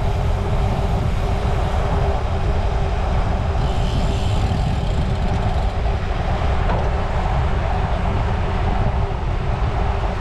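Steady rumble of wind and road noise while riding a bicycle on the road, with a constant low hum and a brief brighter hiss about four seconds in.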